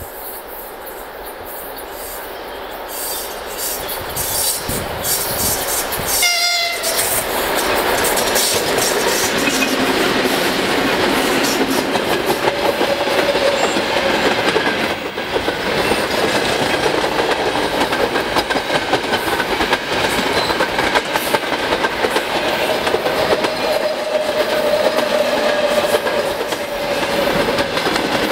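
Russian 2TE25KM twin-section diesel locomotive hauling a freight train approaches and passes at about 56 km/h, growing louder over the first few seconds and sounding a short horn blast about six seconds in as a greeting. The freight wagons then roll past with a steady clickety-clack of wheels over the rails, with a ringing tone at times.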